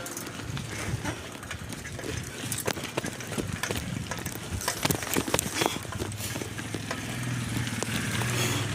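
A bicycle being ridden, its frame and parts giving many irregular clicks and knocks over a steady low hum.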